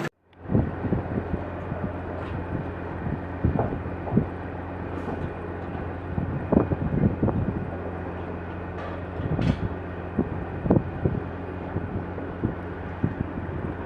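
Large truck's engine running steadily with a low hum, with irregular knocks and clunks throughout.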